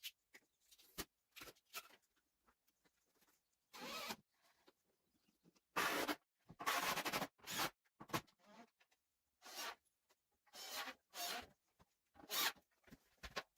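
Wooden ceiling planks being handled and fitted: irregular short scrapes, some up to a second long, with a few sharp clicks and light knocks.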